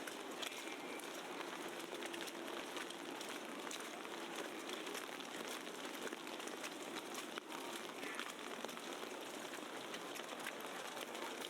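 Wet snow pattering steadily in a city street: a constant wash of noise dotted with many fine ticks.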